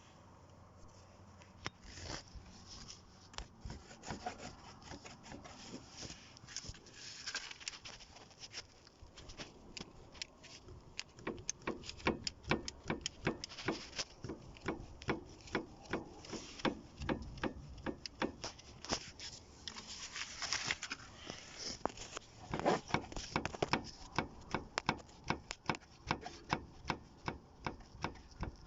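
Third-generation Ford Focus front suspension knocking: repeated sharp knocks, running in even series of about two or three a second through much of the stretch. This is the suspension knock that the owner is demonstrating.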